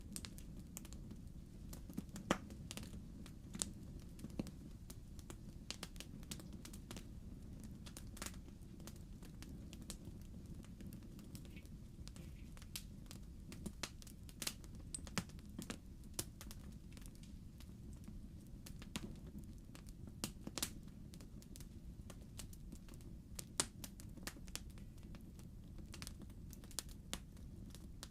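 Wood fire burning in a fireplace: logs crackling with irregular sharp pops and snaps over a steady low rumble.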